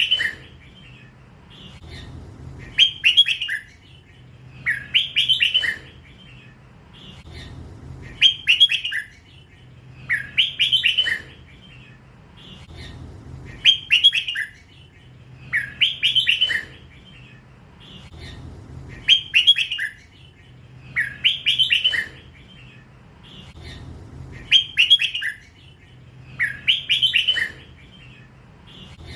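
Young hybrid red-whiskered bulbul singing its drawn-out 'lak wai' song, the style prized by Thai bulbul keepers. It repeats a short, loud phrase of fast notes about every two and a half to three seconds.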